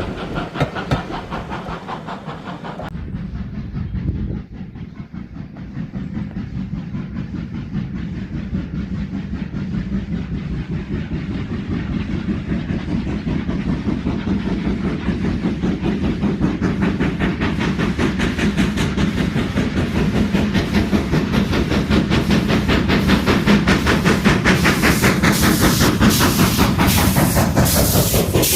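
A steam locomotive hauling a train, its rhythmic exhaust beats, hiss and rail clatter growing steadily louder as it approaches. The sound changes abruptly about three seconds in.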